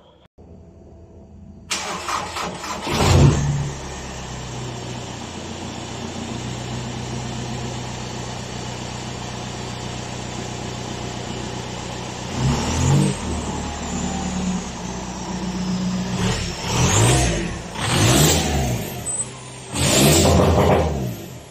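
VW Polo hatchback engine starting, with a brief flare, then idling steadily before being revved in four short blips. A thin high whistle falls in pitch after the later revs.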